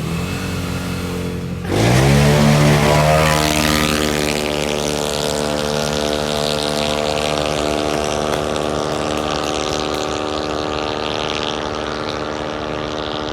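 Racing CVT scooter engines launching about two seconds in: the revs jump up sharply and then hold at a steady high pitch, the way a CVT keeps the engine at constant revs under full throttle. The sound slowly fades toward the end.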